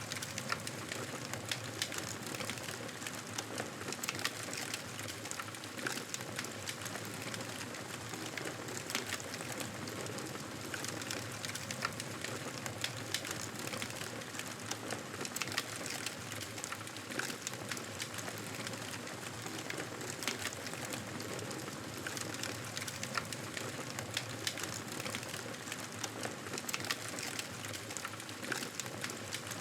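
Wood fire crackling in a fireplace: a steady hiss dotted with many small, sharp pops.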